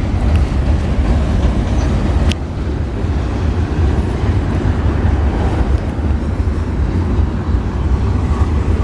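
Freight train rolling past at close range: a steady heavy low rumble of locomotives and railcars, with one sharp click a little over two seconds in.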